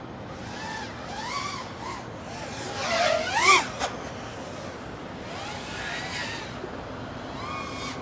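Motors of a 5-inch FPV freestyle quadcopter (EMAX ECO II 2306 motors) whining in repeated swells, the pitch rising and falling with the throttle. The loudest moment is a fast rising punch about three and a half seconds in, followed by a short sharp click.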